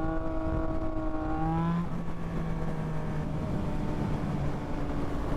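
Yamaha MT-09's inline-three engine running under way at a steady pitch, rising slightly about a second and a half in, then settling to a lower, steadier note, with a hiss of rushing air underneath.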